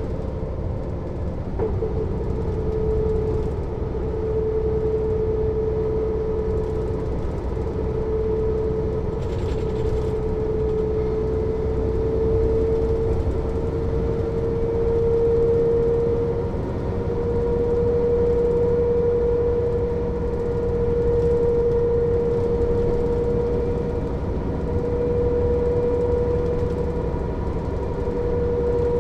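Mercedes-Benz O 407 city bus under way, heard from on board: a continuous diesel rumble with a steady whine over it that slowly rises a little in pitch as the bus gathers speed.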